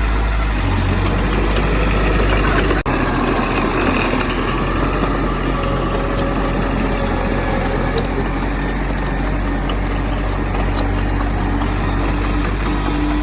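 Heavy diesel engine of earthmoving machinery running steadily, with a low rumble.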